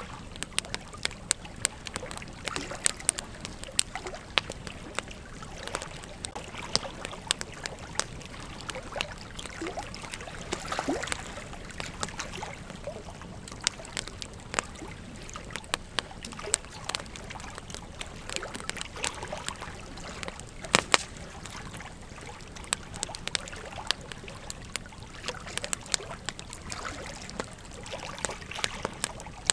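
Wood campfire crackling: a steady hiss with frequent, irregular sharp pops and snaps, the loudest about 21 seconds in.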